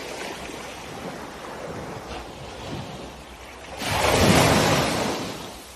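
Ocean surf washing onto a beach: a steady wash of water, with one wave breaking loudly about four seconds in and fading away over a second or so.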